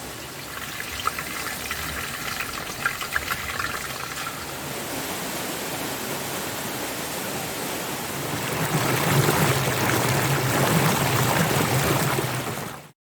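Rushing water of a waterfall and stream, a steady hiss that grows louder and fuller about eight and a half seconds in. A few sharp ticks and clicks sound over it in the first four seconds. It cuts off abruptly just before the end.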